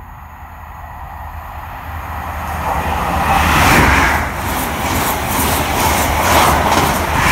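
High Speed Train (Class 43 diesel power cars with Mark 3 coaches) passing at speed. The approach builds to a peak a little before four seconds in as the leading power car goes by. The coaches then rush past with a rapid clickety-clack of wheels over rail joints, and it swells again near the end.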